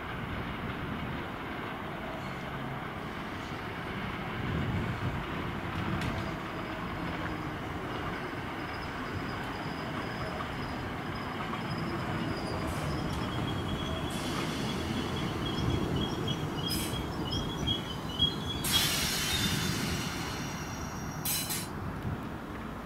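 Suburban electric multiple unit running into a station and braking to a stop. Its wheels run over the rails with steady rumbling, and a high steady brake squeal starts about halfway through. A short burst of hiss comes near the end.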